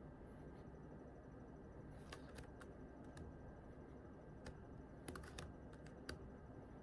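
Faint, scattered computer keyboard keystrokes, irregular single taps and short clusters starting about two seconds in, over quiet room tone.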